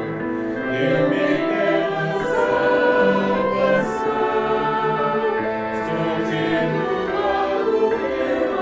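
Church choir singing, several voices holding sustained notes together, with the soft hiss of sung consonants now and then.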